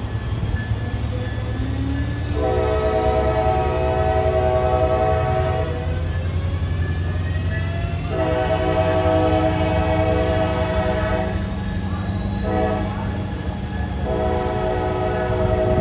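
Passenger diesel locomotive's multi-chime air horn sounding a chord in the long, long, short, long pattern used when approaching a grade crossing, with the last blast still going at the end. The locomotive's diesel engine runs steadily underneath.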